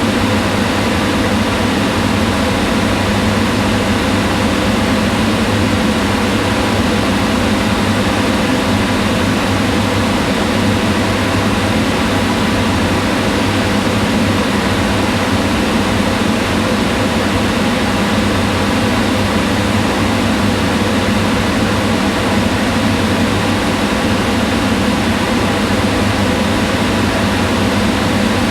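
Kitchen range hood exhaust fan running steadily: a constant whir of moving air over a low hum with a few faint steady tones.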